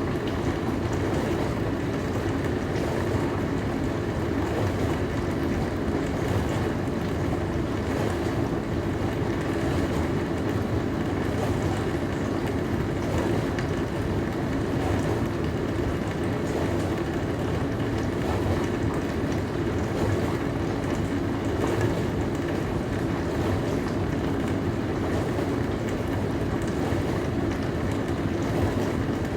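Dishwasher running a wash cycle: a steady, even hum and rush of the wash pump and water spraying inside the tub, with no breaks or changes.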